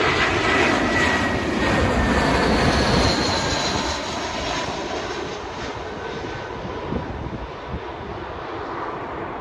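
Airbus A319 jet airliner passing low on final approach to land: jet engine noise with a high whine that falls slightly in pitch, loudest for the first few seconds and then fading as the aircraft moves away.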